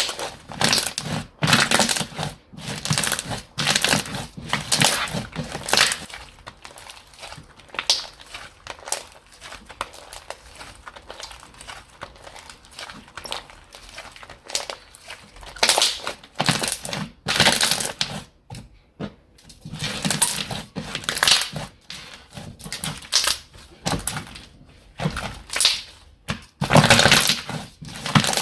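Slime being squeezed, stretched and poked by hand: a run of irregular wet squishes and crackly pops, each lasting about half a second to a second.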